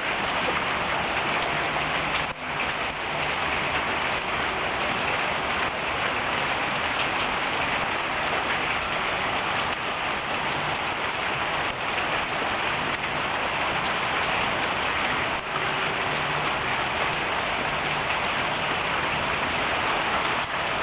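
Steady rain falling, an even hiss of rain on the ground.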